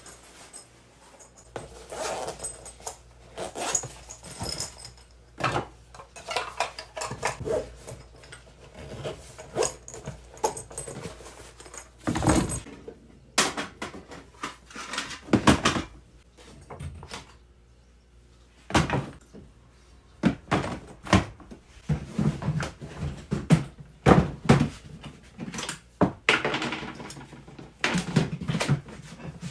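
Irregular knocks, clicks and thuds of hard camping gear being handled and set down, with short pauses between bouts.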